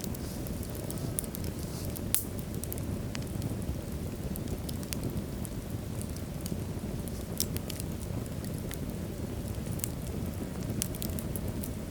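Wood logs burning in a fireplace: a steady low rumble of flames with frequent sharp crackles and pops, the loudest about two seconds in.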